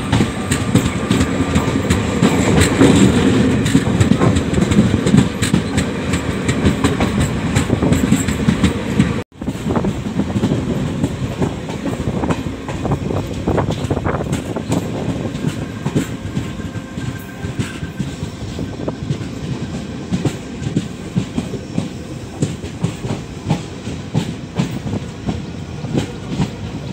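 Passenger express train running at speed, heard from on board a coach: steady rumble of wheels on rail with clickety-clack over the joints. The sound cuts out abruptly about nine seconds in, then resumes somewhat quieter with distinct wheel clicks.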